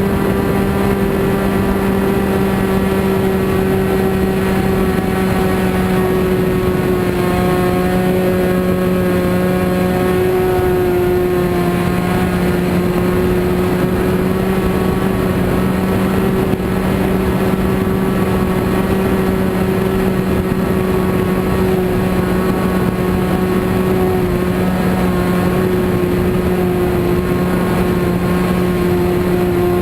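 Small engine of an RC model airplane running at a steady speed, its buzzing note holding one pitch with slight wavers.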